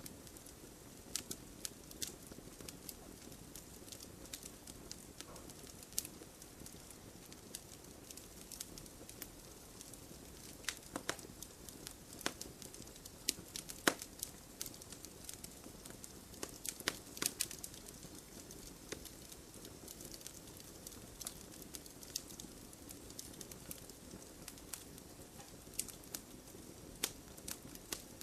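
Wood campfire burning: irregular sharp crackles and pops, some in quick clusters, over a steady soft rush of flame.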